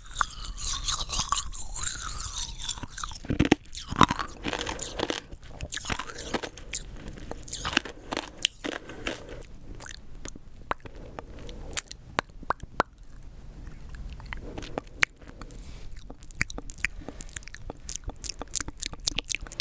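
Rock candy being bitten and chewed close to the microphone: hard sugar crystals crunching and crackling between the teeth in a rapid series of sharp cracks, densest in the first few seconds and again near the end.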